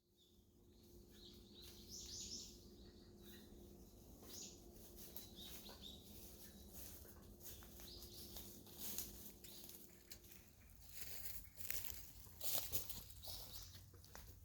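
Woodland ambience: small birds chirping, with a faint steady hum that stops about ten seconds in, followed by irregular crackling, rustling strokes.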